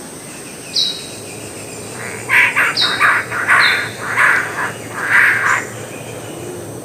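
Bird-of-paradise calls: a run of about six harsh, rasping squawks in quick succession, with short high whistles that drop in pitch before and among them. A steady high-pitched background whine runs underneath.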